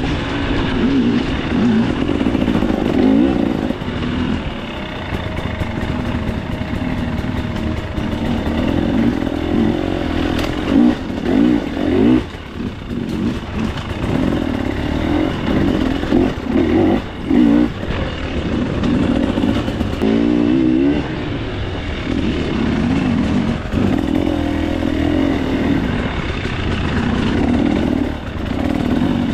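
Single-cylinder two-stroke engine of a 2024 KTM 300 XC-W dirt bike revving up and down as the throttle opens and closes on a tight trail, with brief drops in revs and some rattling from the bike.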